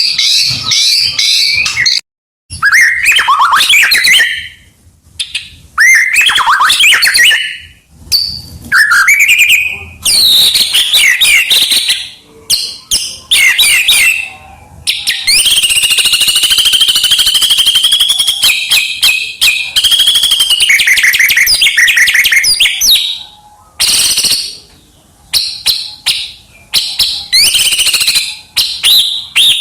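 White-rumped shama singing loud, varied song: rapid whistled phrases with sweeping glides, broken by short pauses, and a long unbroken trill in the middle.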